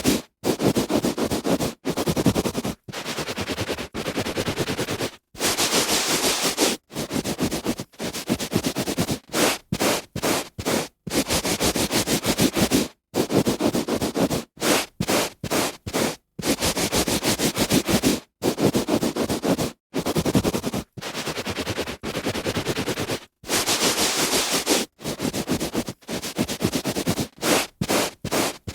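A hand rubbing back and forth on carpet: a run of dry, scratchy strokes, mostly a second or two long, with some quicker short ones in bursts, each broken off by a short silence.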